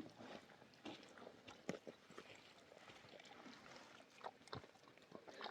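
Near silence with faint, scattered small clicks and rustles of quiet eating and chewing.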